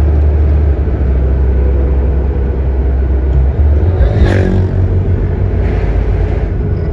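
Road traffic: a steady, loud low rumble, with a motor vehicle passing close about four seconds in.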